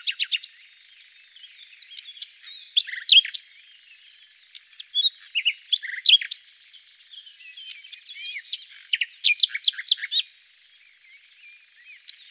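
Several songbirds chirping and calling in a busy chorus of short, quick notes and trills, in clusters with brief lulls and quieter near the end: a recorded nature-sounds background track.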